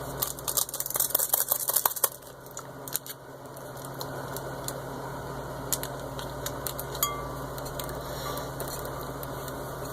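A fork stirring noodles in a glass bowl, with quick clinks of metal on glass for the first two or three seconds, then softer, steadier stirring with an odd clink.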